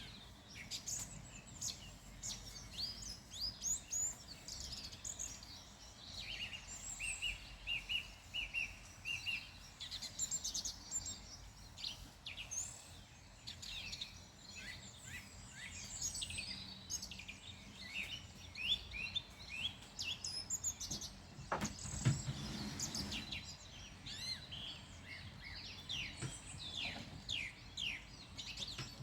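Several wild songbirds chirping and singing, many short high calls overlapping over a faint steady background hiss, with one bird repeating a short note several times about a quarter of the way in. A brief low sound, the loudest moment, comes about three quarters of the way through.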